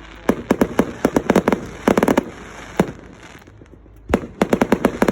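Firework display: quick runs of sharp bangs and crackling reports, with a short lull in the middle.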